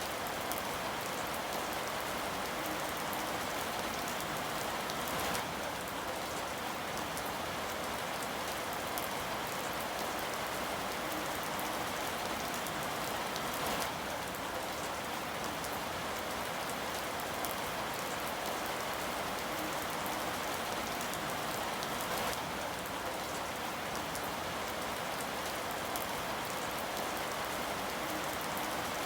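Steady rain falling on a surface, an even hiss full of fine drop patter, with a few slightly louder spells of drops.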